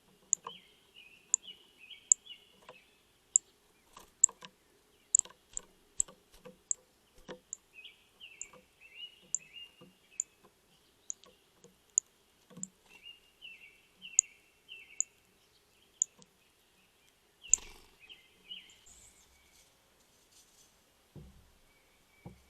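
Songbirds chirping in short runs of quick falling notes, over a string of sharp, irregular clicks and taps, about one or two a second. A louder knock comes about two-thirds of the way through.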